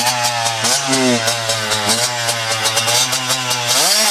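Dirt bike engine running, with the throttle blipped a few times and then revved up sharply near the end and held at the higher pitch. The engine is not yet warmed up.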